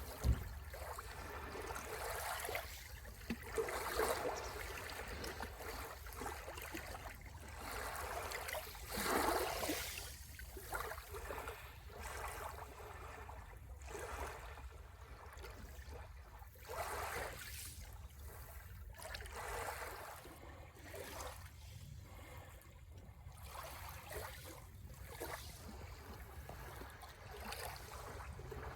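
Small sea waves washing onto the shore and lapping back in irregular surges of hiss a second or two apart, over a steady low rumble. A single sharp click comes right at the start.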